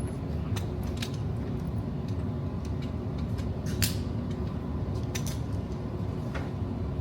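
Steady low rumble with a few scattered sharp clicks; the loudest click comes about four seconds in.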